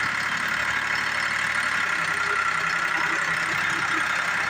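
Ford 3610 tractor's diesel engine running steadily.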